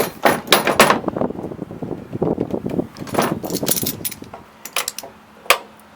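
Metal clinking and rattling from hand tools and engine parts being handled: a quick run of clinks at first, scattered clinks after, and a few single sharp clicks near the end.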